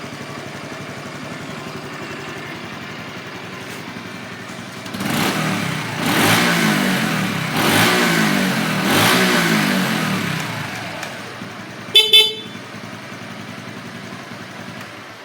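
Honda Super Cub 110's small single-cylinder engine idling, then revved up and down several times before settling back to idle. A short horn beep sounds about twelve seconds in.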